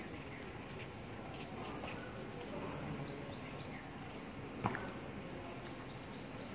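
Outdoor ambience with a steady background hum. Over it a bird calls in two quick runs of repeated short high notes, the first about two seconds in and the second near the end. A single sharp knock comes just before the second run.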